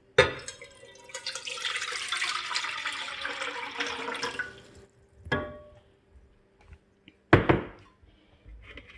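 Water poured into a saucepan for about four seconds, then two short knocks a couple of seconds apart.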